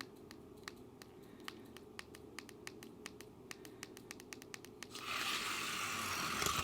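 Scattered light plastic clicks, then a diecast toy truck rolling down a track for about a second and a half with a rough scraping noise that cuts off sharply. It is running without lube on axles that are messed up and sound horrible.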